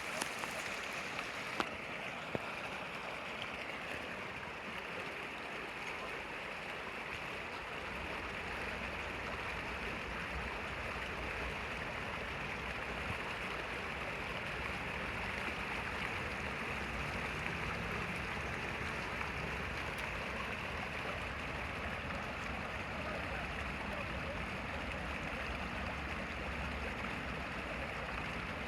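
Steady rushing noise with no distinct events, with a couple of small clicks in the first few seconds.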